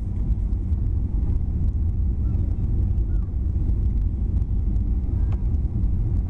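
Steady low rumble inside the cabin of a Boeing 737-800 in flight, from its CFM56 engines and the airflow past the fuselage, with a small click about five seconds in.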